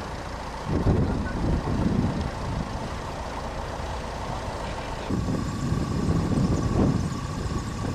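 A motor vehicle running, a low rumble that rises and falls, with a thin steady whine joining about five seconds in.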